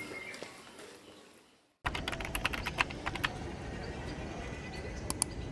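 A sound fades out to silence, then after a sudden cut comes a quick run of sharp clicks lasting about a second, and a couple more clicks near the end, over steady background noise.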